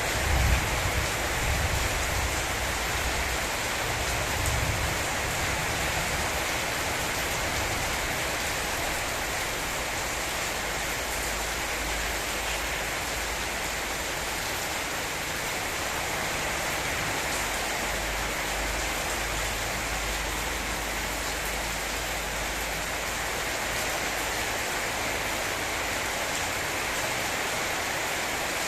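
Steady heavy rain of a rainstorm falling, with a low rumble in the first few seconds.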